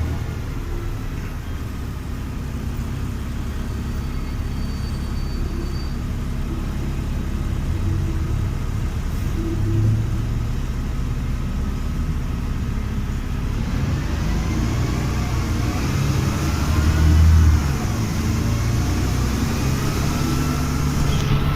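LiAZ-5256 city bus's rear diesel engine and drivetrain running steadily, heard from inside the passenger cabin. About two-thirds of the way through, a drivetrain whine climbs in pitch and then falls away as the bus picks up speed.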